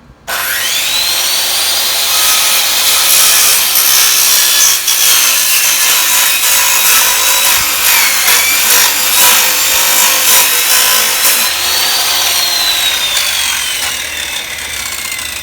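Old SKIL circular saw with a very dull blade starting up and ripping through a 2x4 with sixteen nails driven into it, the blade grinding through wood and nail steel in a pretty rough cut. The motor whine climbs at once, sags under load partway through, then falls steadily near the end as the saw is let off and the blade spins down.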